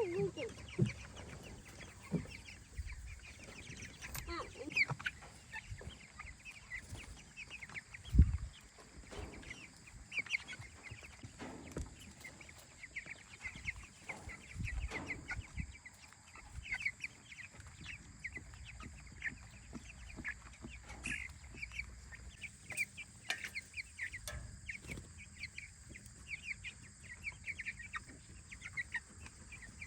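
Young meat chickens peeping and cheeping throughout, with a few knocks and one loud thump about eight seconds in.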